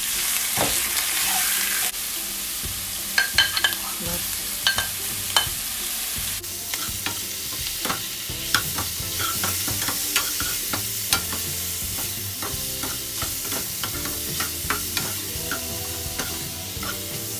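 Squid and shrimp sizzling in hot oil in a wok, loudest for the first couple of seconds as they go into the pan. A metal ladle scrapes and taps against the pan as they are stirred.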